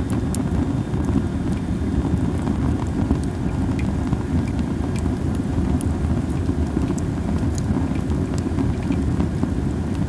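Masaki (Japanese spindle) wood burning in a campfire, giving scattered sharp crackles and pops at irregular intervals over a steady low rumble.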